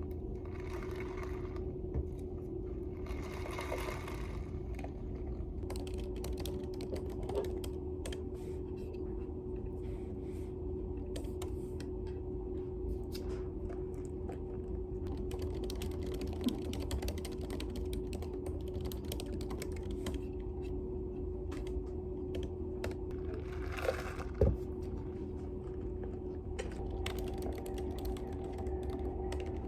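Computer keyboard typing: runs of quick key clicks, with a few louder taps, over a steady low hum and a faint held tone.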